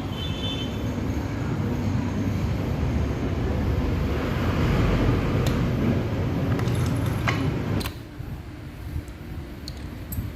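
Bajaj Pulsar AS150 single-cylinder engine running with a rough, rubbing noise, which the mechanic likens to a cement-mixer sound and traces to a worn clutch assembly. It gets louder midway, then stops abruptly about eight seconds in, followed by a few light metallic clicks.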